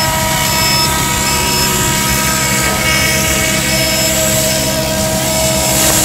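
Large electric scale RC helicopter of the Huey type, hovering low over the ground: a steady whine from its motor and rotors.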